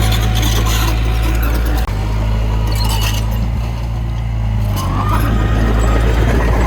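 Heavy diesel engine of earthmoving machinery running steadily, a loud low drone, with a brief break about two seconds in.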